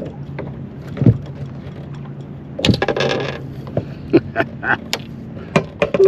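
Sharp knocks and clicks in a small fishing boat, with a short splashy rush about three seconds in, over a steady low hum, as a hooked crappie is brought in.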